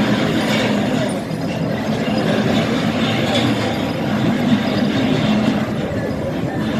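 Crowd din: many voices talking at once in a steady murmur.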